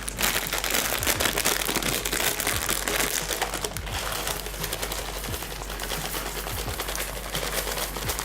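Dry wood smoking chips being poured and spread over a metal baking tray: a continuous, dense rattle of many small ticks.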